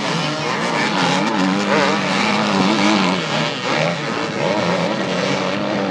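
Off-road racing engines revving up and down, their pitch rising and falling as they accelerate and back off, with more than one engine heard at once.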